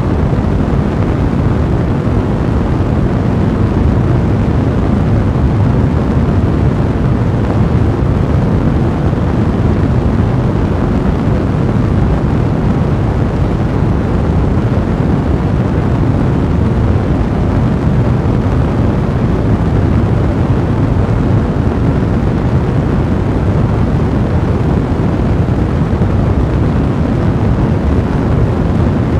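Fire in a fireplace burning with a steady, deep, rushing rumble that stays even throughout.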